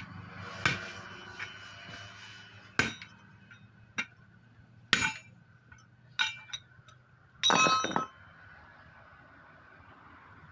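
Metal tools striking and clinking on a truck tyre and its rim during puncture repair and refitting: about six separate sharp metallic knocks at uneven intervals, the last a longer ringing clatter near the end.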